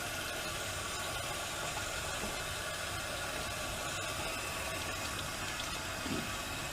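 Steady rush of water running through the plumbing as a newly installed water heater fills and a hot-water tap is opened to bleed air out of the line.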